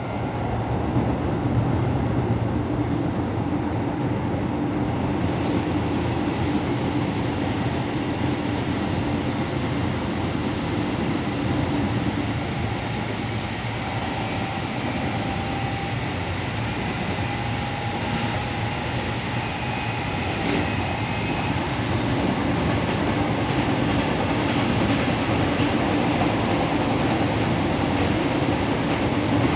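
Keio 7000 series commuter train running at speed, heard from inside the passenger car: a steady rumble of wheels on rail and traction gear. A faint high whine is heard for a few seconds in the middle.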